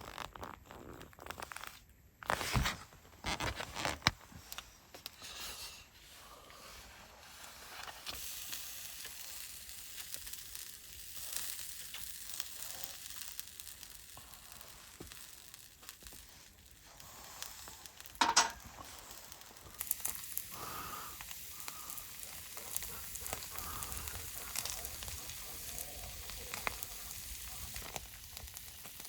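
Food sizzling as it cooks: a steady hiss from about eight seconds in, after a few knocks near the start, with one sharp knock a little past halfway.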